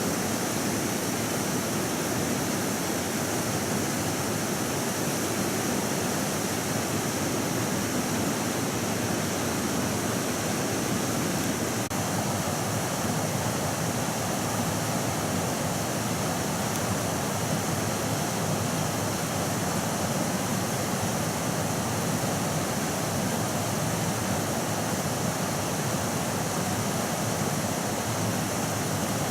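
Steady rushing of running water, an even roar with no rhythm or pitch, which cuts off suddenly at the end.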